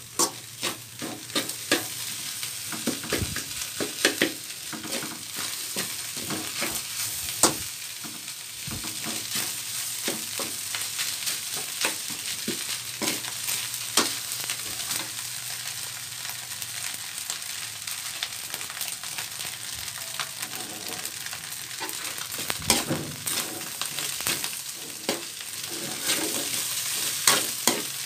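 Fried rice frying in a metal wok, a steady sizzle, while a spatula stirs and turns it with frequent irregular scrapes and clicks against the pan.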